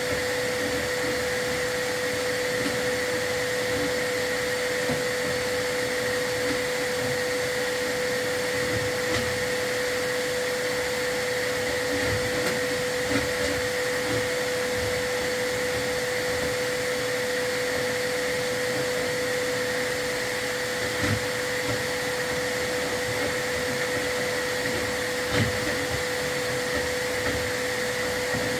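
Vacuum cleaner running steadily with a constant high whine, with a few faint knocks now and then.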